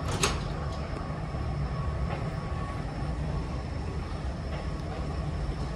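Steady low rumble of running machinery with a faint steady hum above it, and one brief click about a quarter second in.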